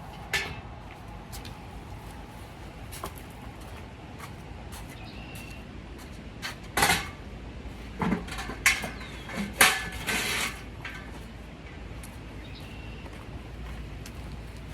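Scattered knocks and clatter over a low steady background, loudest in a cluster of sharp impacts from about seven to ten and a half seconds in.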